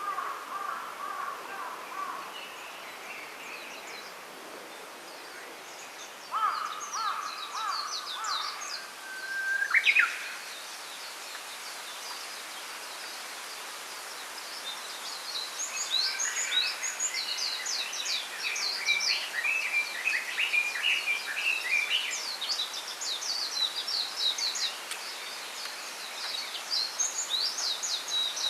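Small birds calling and singing in a bamboo grove over a steady background hiss. A few lower repeated calls come early and again around six to eight seconds in, a single rising call about ten seconds in is the loudest, and from about sixteen seconds on there is a long run of quick, high chirps.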